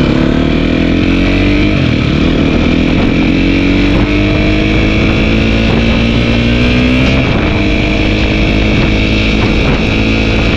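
Dirt bike engine running while riding, its note dropping briefly about two seconds in and then rising steadily as it accelerates.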